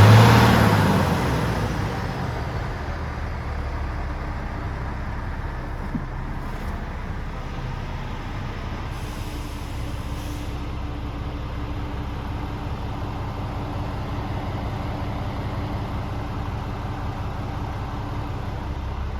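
Scania R450 Euro 6 straight-six diesel engine in the tractor unit, revved once at the start and dropping back over a couple of seconds to a steady idle.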